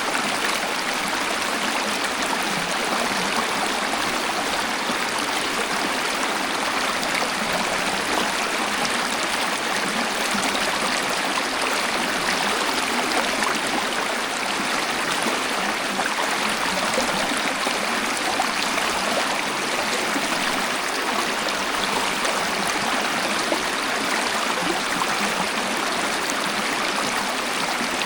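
Waterfall or fast stream: water rushing and splashing in a steady, even roar with no change.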